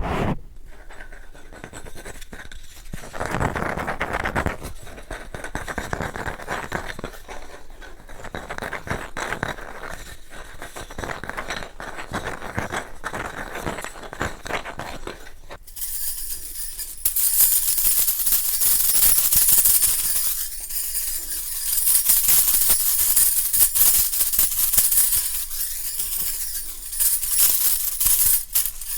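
Fast ASMR trigger sounds: objects rapidly scratched and rubbed close to the microphone, with many quick strokes. A little past halfway the sound changes to a brighter, hissing texture made of rapid strokes.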